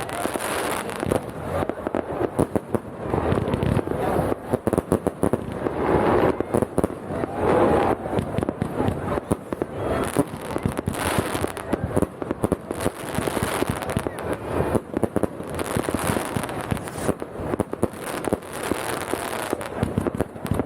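Fireworks going off without a break: a dense run of bangs and crackles, many per second, with people's voices faintly underneath.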